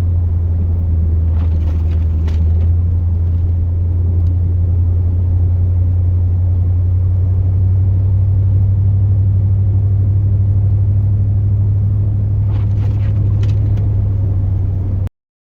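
Plow truck running with a steady, loud low rumble, a few faint clicks over it, cutting off abruptly near the end.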